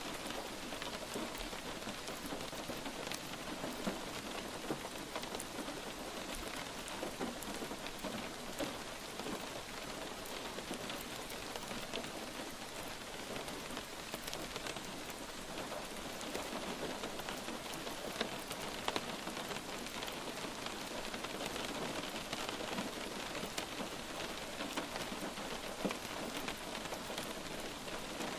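Light rain falling steadily, a continuous hiss with many small individual drops pattering through it.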